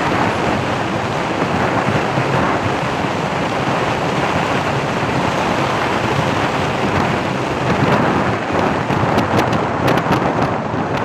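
Wind buffeting the microphone: a loud, steady rushing, with a few sharp crackles near the end.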